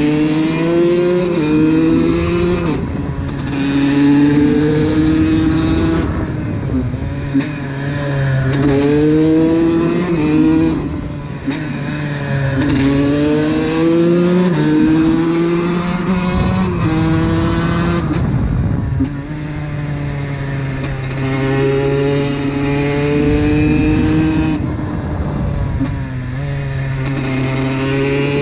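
Honda CR125's 125 cc two-stroke single-cylinder engine being ridden hard, its pitch rising again and again as it revs up through the gears and dropping back at each shift or roll-off.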